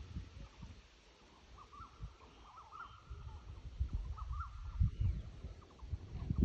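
Birds calling in quick clusters of short chirping notes, over low irregular rumbling.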